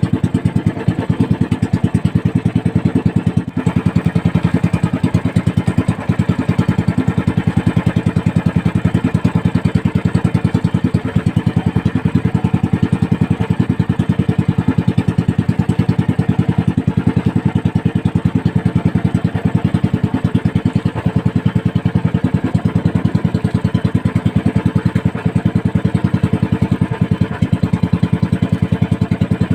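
Small motorized outrigger fishing boat's engine running steadily at an even speed, a fast regular putter, while the boat trolls for tuna.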